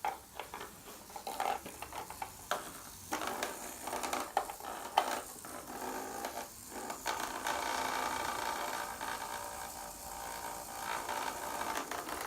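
Small plastic toy pieces and packaging being handled, with scattered clicks and rustling, then a steadier rustling hiss in the second half.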